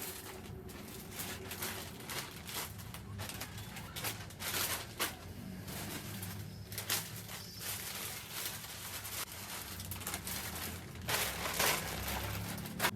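Irregular rustling and crinkling with a few sharper scrapes and knocks, the sound of things being handled at close range.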